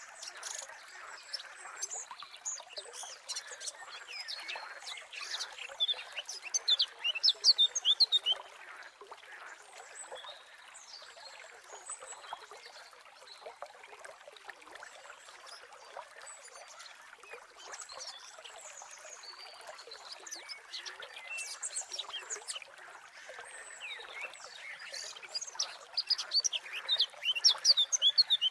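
Small birds chirping in quick runs over a steady background hiss, with the busiest bursts of chirps about six to eight seconds in and again near the end.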